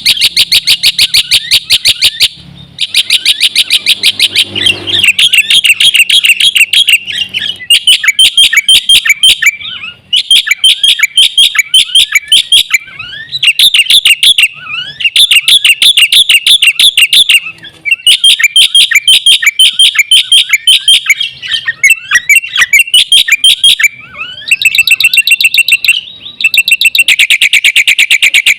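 Black-winged starling (jalak putih) singing loudly: phrases of rapid, repeated chirps, each lasting a couple of seconds, broken by short pauses.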